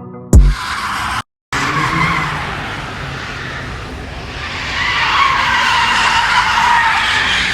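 A last hit of music, a brief cut-out, then car tires squealing and skidding, the wavering squeal growing louder about halfway through.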